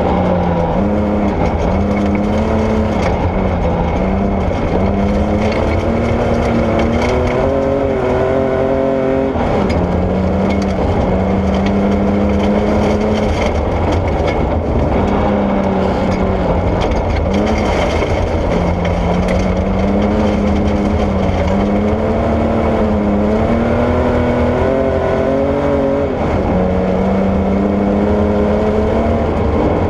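Porsche 964 rally car's air-cooled flat-six driven hard, its pitch climbing and then dropping several times with gear changes and lifts, over a steady rumble of tyre and gravel noise.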